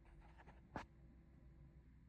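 Near silence with a low steady hum, broken by one sharp click a little under a second in.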